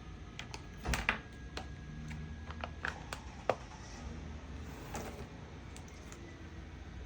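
Art supplies handled on a work table: scattered light taps and clicks, with louder knocks about a second in and about three and a half seconds in.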